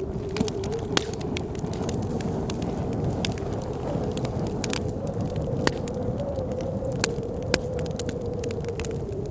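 Wood fire crackling with sharp, irregular pops over a steady blizzard wind that carries a wavering whistle.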